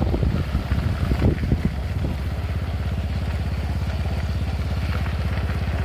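A motor vehicle's engine running at a steady pace, with even, rapid low firing pulses from about two seconds in. Before that there is irregular rumbling and knocking.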